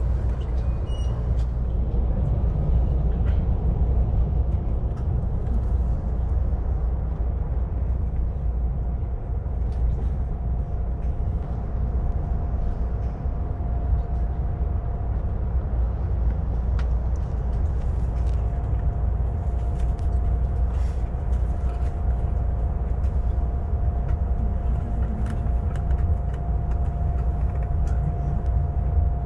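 Steady low rumble inside a coach of a Siemens S-103 (Renfe AVE) high-speed train. A steady whine comes in partway through and grows stronger a little past halfway.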